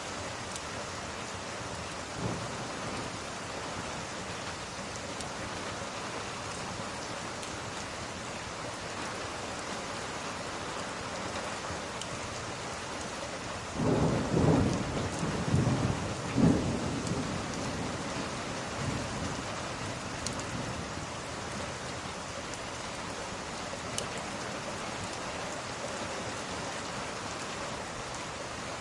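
Steady rain falling, with a roll of thunder about halfway through that rumbles in several swells for about three seconds before fading back into the rain.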